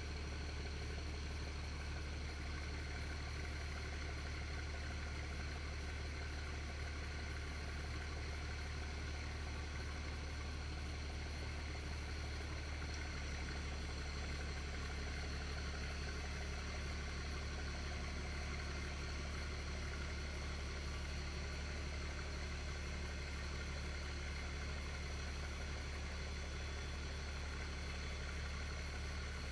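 A first-gen Dodge Cummins dump truck running with a steady low drone. The tone shifts slightly about thirteen seconds in.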